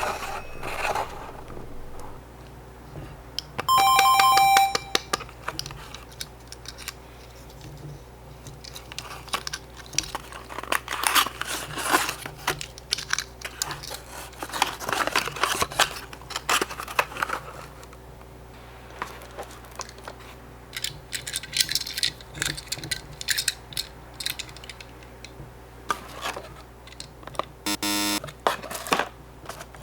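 Small die-cast Tomica police cars and their paper boxes handled: scattered clicks, taps and rustling of the cardboard. A short bright chime sounds about four seconds in, and a brief buzzy tone near the end.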